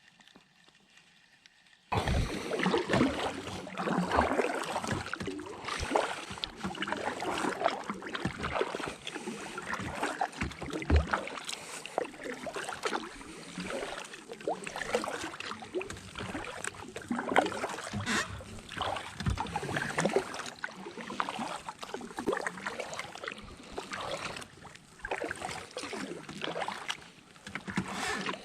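Water splashing and sloshing in irregular strokes, starting suddenly about two seconds in after near silence.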